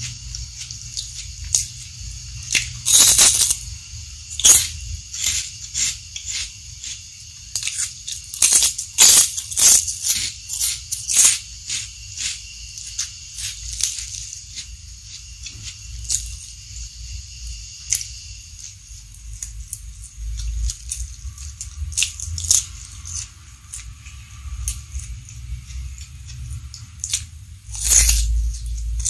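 Close-miked crunching and chewing of a crisp fried cracker, irregular crunches coming thick and loud through the first dozen seconds, then sparser wetter chewing, with one more loud crunch near the end.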